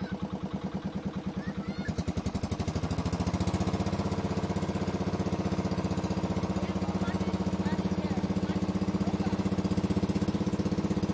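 Motor boat's engine running with a rapid, even thudding beat; about two seconds in it speeds up and gets louder, then runs steadily.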